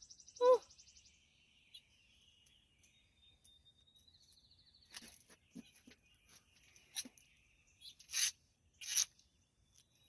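Birds singing outdoors with high trills, a short low call about half a second in, and several brief scratchy bursts in the second half, the loudest two near the end.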